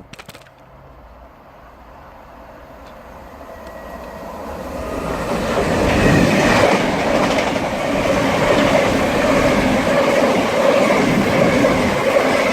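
Class 90 electric locomotive and its rake of Mark 3 coaches passing through the station at speed without stopping. The rumble builds from about a second in until about six seconds in, then holds loud and steady as the train goes by, with a steady whine within it.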